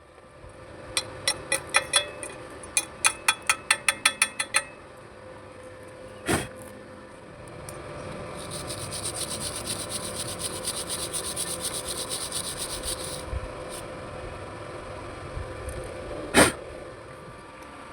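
Metalworking on steel plate: a quick run of sharp metallic taps, about four a second, then a single knock. After that comes about five seconds of scratchy, rasping hiss and a second knock, over a faint steady hum.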